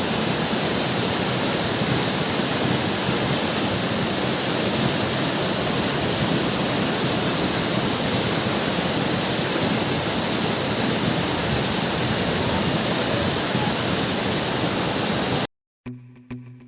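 Steady, loud rushing of a waterfall close to the microphone. It cuts off abruptly near the end, and music with plucked notes begins.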